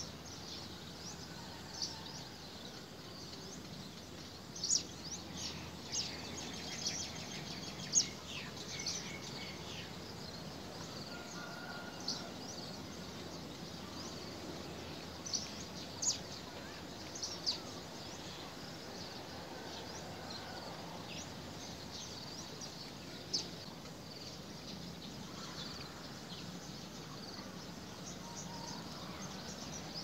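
Short, sharp, high-pitched bird chirps, about a dozen scattered irregularly over a steady outdoor background hiss.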